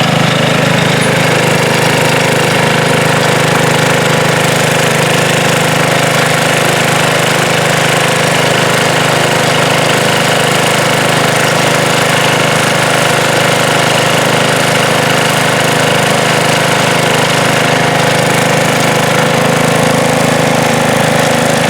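Sears Suburban garden tractor engine running steadily and evenly, driving a snow thrower.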